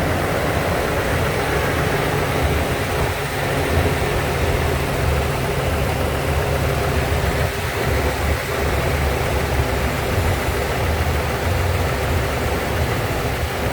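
Ford Triton 6.8L V10 gasoline engine of an F550 truck idling steadily, heard close up.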